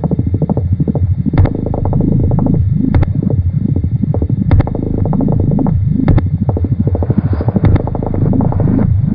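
Experimental electronic tape-music piece: a low, warbling, rapidly pulsing rumble that repeats in a loop, with a sharp click about every second and a half.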